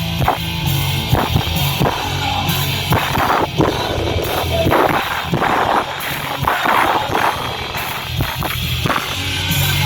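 A rock band playing live, with a drum kit hitting steadily over bass and guitars.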